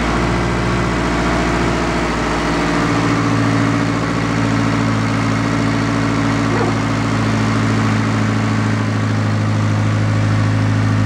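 Freshly rebuilt Honda K20A2 2.0-litre inline-four idling steadily on its first startup, the idle rising slightly about three seconds in.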